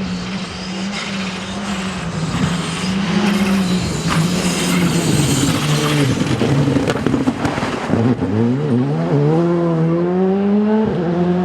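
Rally car engine running hard, its revs fairly steady at first, then climbing sharply as it accelerates, with a quick drop near the end as it shifts up a gear.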